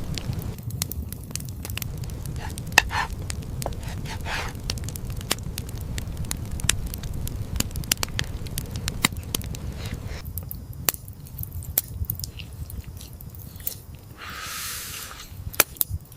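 Wood fire crackling, with irregular sharp pops over a steady low rumble, and a brief hiss about a second long near the end.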